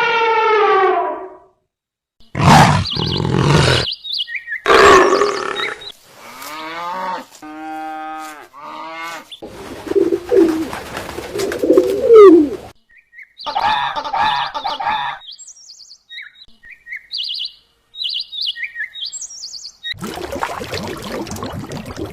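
A string of different animal calls, one clip after another with short gaps: pitched cries, loud harsh bursts and a run of repeated falling notes. Later come scattered short high bird chirps, then a steady noisy stretch near the end.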